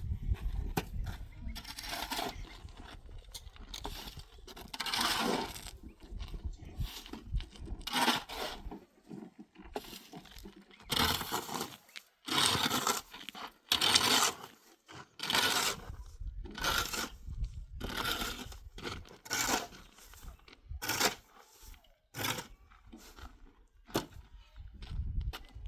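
Repeated rough scraping strokes against a gritty surface, each lasting under a second, with short pauses between them.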